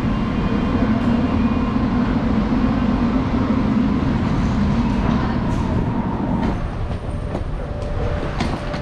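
Train running with a steady rumble and a faint whine, easing off about six and a half seconds in, followed by scattered clicks and knocks.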